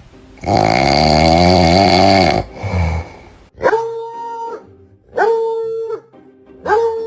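A dog howling, a loud wavering call for about two seconds, followed by three short, identical, steady-pitched calls about a second and a half apart.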